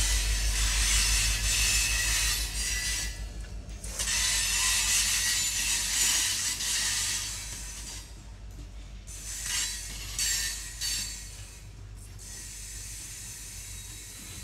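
Steel wheels of a freight train's loaded ethanol tank cars and gondolas rolling over the rails: a hissing, rattling wheel-on-rail noise over a low rumble. It is loud for the first eight seconds with a short drop near four seconds, then eases off, with two brief surges a little after the middle.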